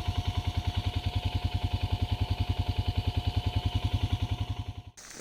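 ATV engine running steadily at idle with an even, rapid pulsing, with no revving; it cuts off suddenly near the end.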